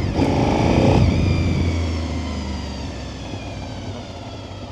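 2002 Honda VTR SP2 (RC51) 1000 cc V-twin, fitted with aftermarket silencers, pulling hard under throttle for about a second. Then the throttle closes and the engine note falls and fades as the bike rolls off.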